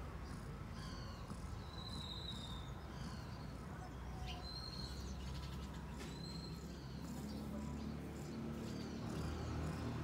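Birds chirping: short, high calls, some falling in pitch, scattered throughout, over a low steady rumble.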